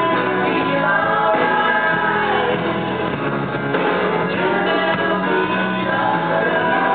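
Live band playing a rock song with singing over it, steady and loud throughout.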